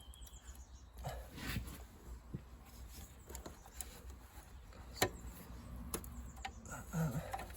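A few light clicks and taps, the sharpest about five seconds in, from a small pipe clip, bracket and nut being fitted by hand in a car's engine bay.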